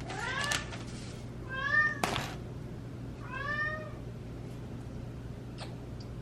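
Domestic cat meowing three times, each call bending up and then down in pitch, with a sharp click just after the second meow.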